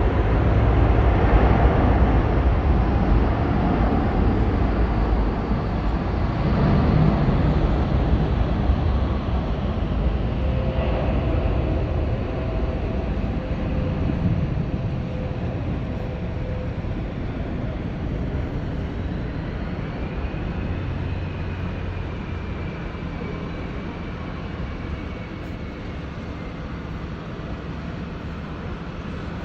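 Boeing 787-9 jet airliner taking off, its twin turbofans at takeoff thrust making a loud, dense rumble that slowly fades as it climbs away. In the second half, a thin high whine slides gently down in pitch.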